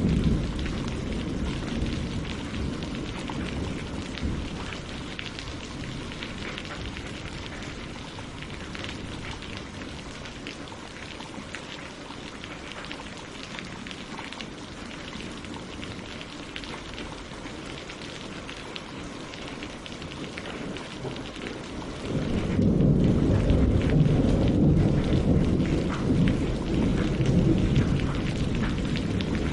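Steady rain falling on tree leaves and lake water, a dense patter of drops, with thunder rumbling low: one rumble dies away over the first few seconds, and another, louder one starts suddenly about three-quarters of the way through.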